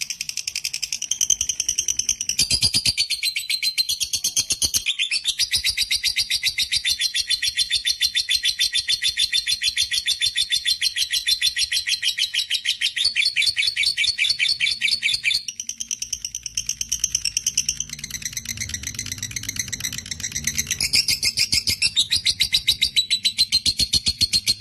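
Lovebird chattering in one long, unbroken, high-pitched run of rapid notes: the 'ngekek panjang' long chatter that fanciers prize in a bird in full song. The notes change in tone briefly about fifteen seconds in and again a few seconds later, without a break.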